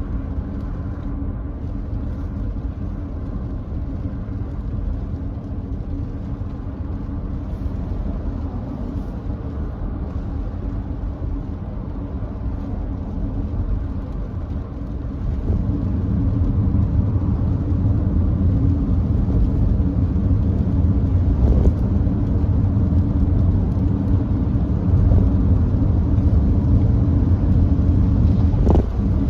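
Road noise of a Nissan Note e-POWER driving on a wet expressway: a steady rumble of tyres and wind that grows louder about halfway through.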